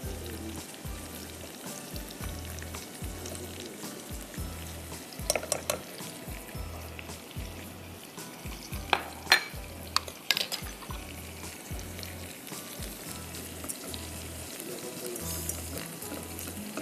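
Chopped onion and garlic frying in butter in a pan while being stirred, with flour going in to start a butter-and-flour roux. The spoon knocks against the pan in a few sharp clicks about five seconds in and again around nine to ten seconds.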